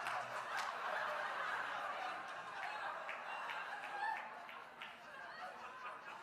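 Audience laughing, gradually dying down.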